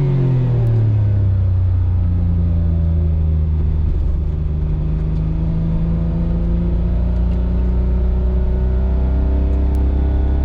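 Autozam AZ-1's turbocharged three-cylinder engine, breathing through a straight downpipe with no catalytic converter, dropping in revs at the start, then running at steady, lower revs with a deep drone. The revs creep up slightly near the end.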